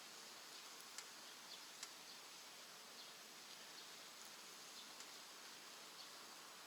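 Faint wood fire in a rocket stove: a steady low hiss with a few small crackling pops scattered through.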